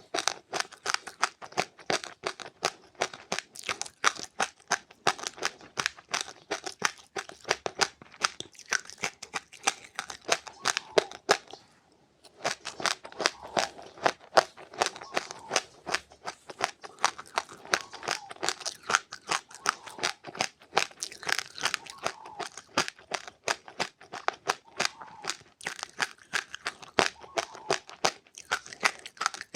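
Close-up chewing of dry seeds, a rapid run of crunches and crackles several a second, with a brief pause about twelve seconds in.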